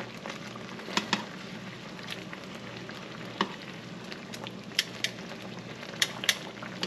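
Chicken cutlets sizzling and simmering in a skillet of sherry and chicken-stock sauce, a steady hiss, with several sharp clicks of a utensil against the pan.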